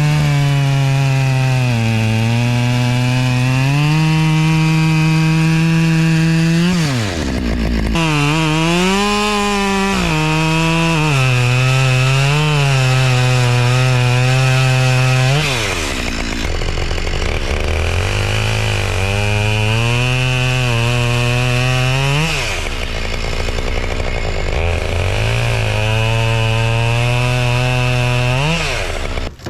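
Two-stroke chainsaw run at full throttle through a series of cuts. Its pitch sags as the chain bites into the wood and climbs back as it frees up, and it drops back toward idle briefly about four times between cuts.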